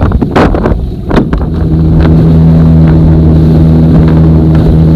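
Motorboat engine on an aluminum fishing boat running at a steady speed, a loud, even drone that settles in after a few knocks and wind noise in the first second or so.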